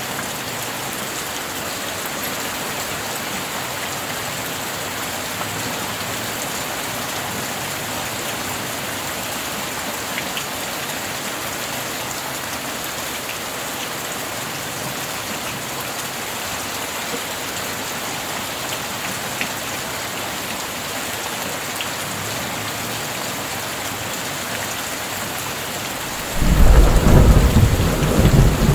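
Steady rain falling, with a few scattered drop ticks. Near the end, a loud, deep thunder rumble breaks in and keeps going.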